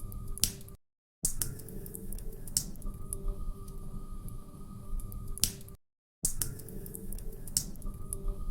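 Log fire crackling, with irregular sharp pops over a low rumble of burning. The sound cuts out to silence twice for about half a second, about a second in and again near six seconds, where the short recording loops.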